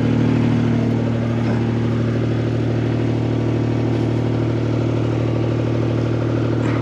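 Skid steer engine running steadily at idle, with a constant low, even note.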